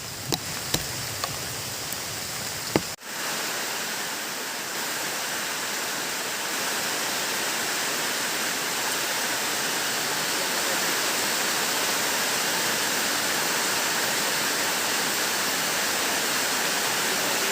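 Heavy rain falling steadily, an even rushing hiss. The first few seconds are quieter, with a few sharp drip ticks; then the sound cuts to a louder, uniform downpour.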